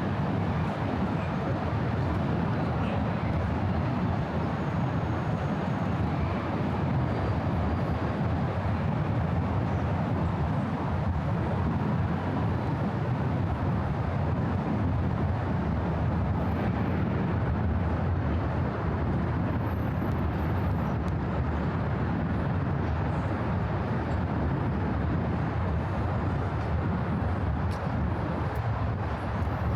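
Steady roar of distant city traffic, an even wash of noise with no single vehicle standing out.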